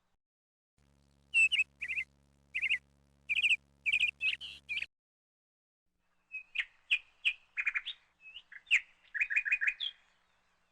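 Songbird singing in two bouts of quick, high chirping notes, with a short pause between them.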